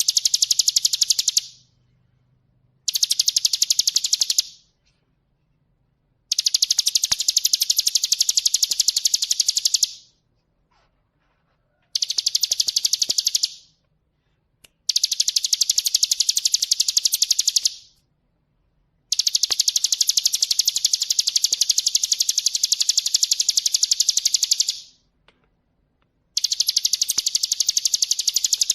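Ciblek gunung (hill prinia) singing: a fast, high-pitched trill of rapidly repeated notes, delivered in seven bouts of about one and a half to six seconds each, separated by short pauses.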